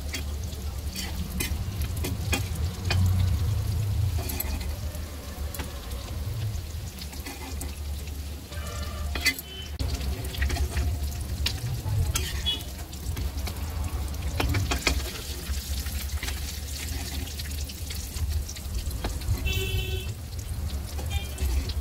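Bread-coated potato cutlets frying in hot oil in a kadhai, sizzling steadily, while a metal spatula scrapes and clicks against the pan as they are turned and lifted out.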